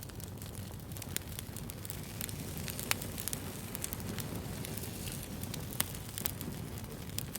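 Wood fire burning with a steady low rumble and irregular sharp crackles and pops, a few of them louder than the rest.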